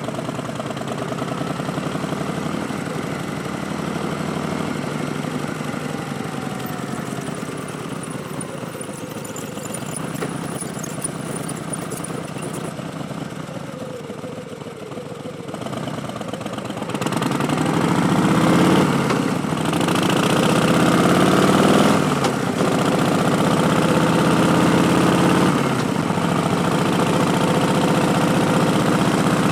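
Harley-Davidson Street Bob's Milwaukee-Eight 107 V-twin running through a Vance & Hines Twin Slash slip-on exhaust, steady at moderate revs at first. About two-thirds of the way in it gets louder, its pitch rising and falling several times.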